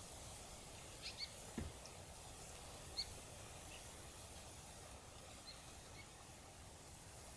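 Faint, scattered short bird chirps, a few a second early on and sparser later, over a steady low outdoor hiss.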